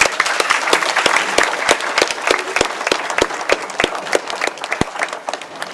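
A crowd of people applauding, many hands clapping at once, thinning out near the end.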